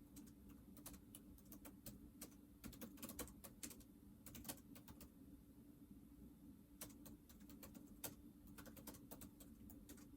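Faint typing on a computer keyboard: two runs of quick key clicks with a gap of about a second and a half between them, over a low steady hum.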